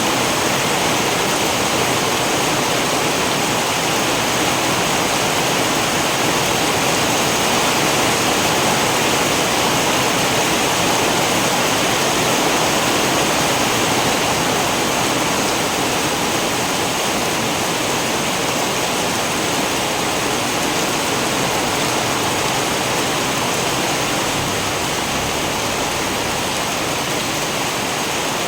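Steady rain, an even rushing hiss with no thunder.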